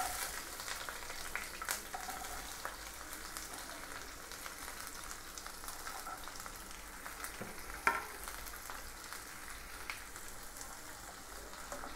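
Cut onions, green chillies, garlic and ginger sizzling in hot oil in a kadai, the sizzle strongest in the first moments as the onions go in, then settling to a steady sizzle. A few sharp clicks sound over it, the sharpest about eight seconds in.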